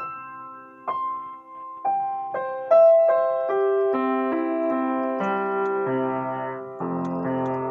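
Piano played slowly: single struck notes at first, then overlapping held notes building into fuller chords from about halfway through.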